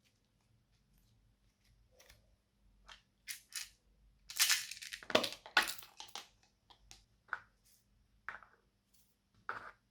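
Hands working and mixing slime: a series of short squishing noises, busiest and loudest from about four to six seconds in.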